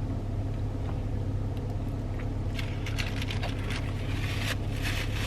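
Steady low hum of an idling car engine, heard from inside the cabin. Scattered light clicks and crackles of eating come over it in the second half.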